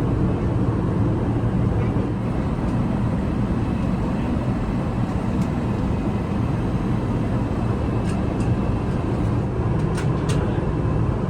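Steady low rush of an Airbus A380's passenger cabin in flight, with a few light clicks about two-thirds of the way through.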